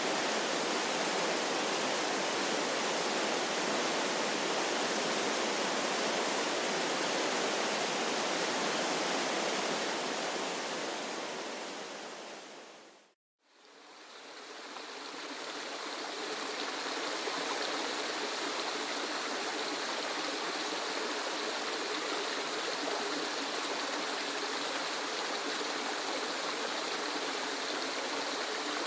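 Steady rushing of a waterfall that fades out about halfway through to a brief silence, then a second waterfall recording fades back in, thinner in the low end and more hissy.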